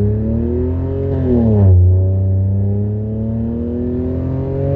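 Modified Suzuki Swift's engine, exhaust downpipe valve open, rising in pitch under throttle. The note drops sharply about a second and a half in, as at a paddle-shifted gear change, then climbs slowly again.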